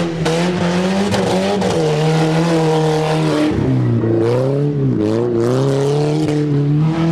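Off-road racing vehicle's engine under hard throttle, its note held high, then dropping and climbing again twice in the second half, as at gear changes or throttle lifts.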